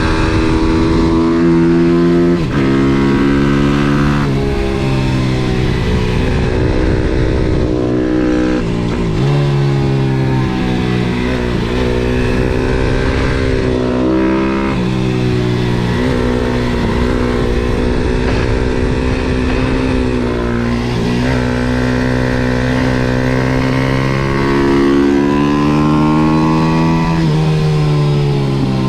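MRF 140 SM pit bike's single-cylinder four-stroke engine ridden hard. Its pitch climbs under throttle and drops sharply at each gear change, several times over, with steady wind rumble on the onboard microphone.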